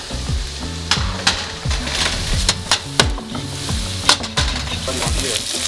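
Diced red onions sizzling as they fry in a pan, stirred with a wooden spoon, over background music with a repeating deep bass beat.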